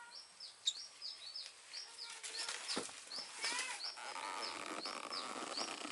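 Birds calling: one bird repeats a short, high chirp over and over, about three to four times a second, and a few louder rising calls break in around the middle.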